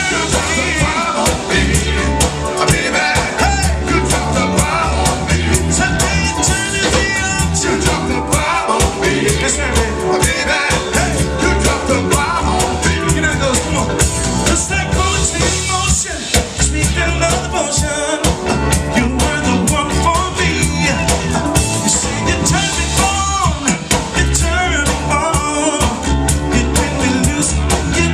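Live soul band playing a song with a lead singer over bass, drums and guitar, recorded through a pocket camcorder's microphone.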